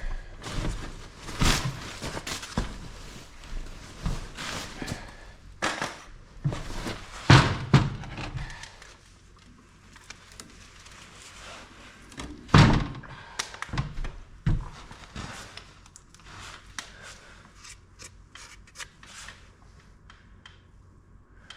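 Heavy metal parts and tools being handled during engine work: irregular clanks and thunks, the loudest few in the first two-thirds, then softer clicks and taps.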